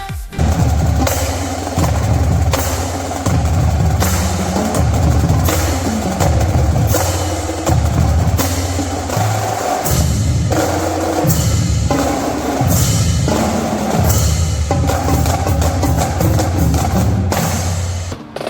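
Marching drumline playing a loud, driving percussion cadence, with dense rapid drum strokes over deep, pitched bass drum hits. It cuts in abruptly and stops just before the end.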